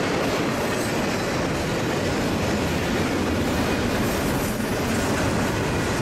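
Double-stack container well cars of a freight train rolling past close by: a steady, unbroken rumble of steel wheels on rail.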